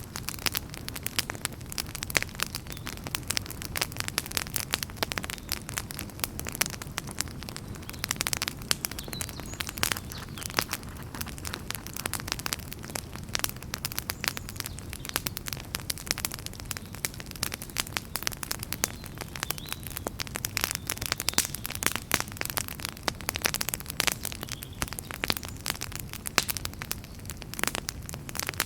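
Wood fire burning in a fireplace, with a dense run of irregular sharp crackles and pops over a low, steady rumble of the flames.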